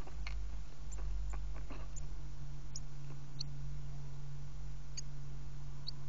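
A coal tit on a bird feeder close to the microphone, pecking and shuffling: a few sharp taps in the first two seconds. Brief high chips come every second or so over a steady low hum.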